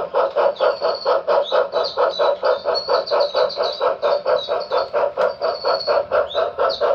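HO-scale Reading consolidation's DCC sound decoder playing steady steam-exhaust chuffs, about five a second, through the model's small speaker, with high twittering chirps over it.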